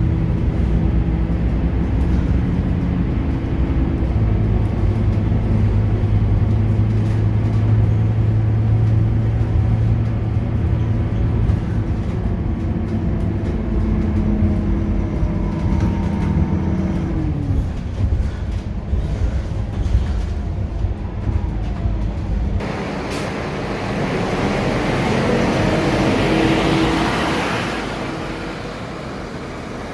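Scania K230UB city bus's diesel engine and ZF automatic gearbox running under way with a steady drone, its pitch falling from about 17 s as the bus slows. About 23 seconds in the drone cuts off suddenly, and a hiss that swells and fades takes over.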